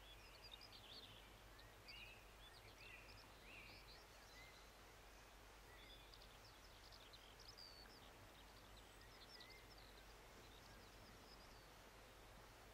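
Faint scattered songbird chirps and short whistles over a quiet rural background, busiest in the first half.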